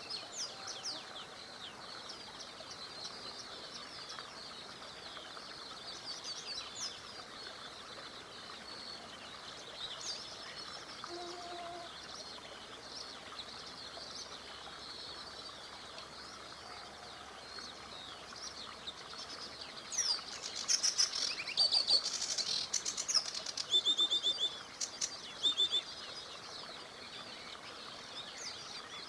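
Songbirds chirping and singing over the steady wash of a small river. About two-thirds of the way through comes a louder burst of quick, close chirps and rapid clicks lasting several seconds, then the background birdsong resumes.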